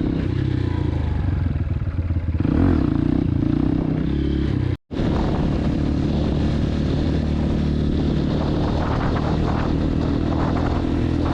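Dirt bike engine running steadily at idle. The sound breaks off to silence for a split second about five seconds in.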